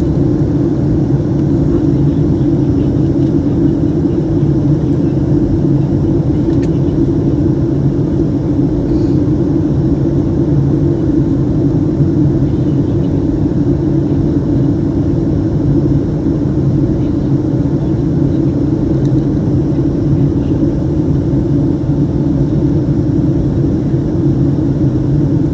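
Steady cabin noise inside a Boeing 757-200 in flight: the even drone of its Pratt & Whitney PW2000 engines mixed with rushing airflow, a low hum unchanging throughout.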